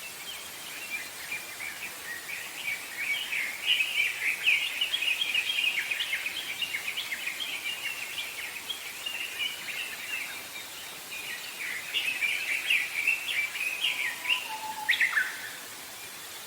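Songbirds chirping and singing together in a dense chorus of quick high notes, busiest in the middle and again later on, with a lower whistled note and a falling call shortly before the end.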